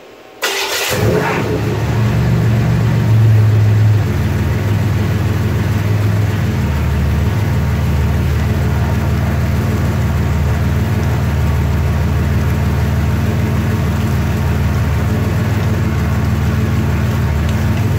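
Car engine started about half a second in, running at a faster idle for a few seconds and then settling to a steady, lower idle. It is running with the transmission cooler lines disconnected, so the automatic transmission's pump is pushing the old fluid out of the open line into a bucket.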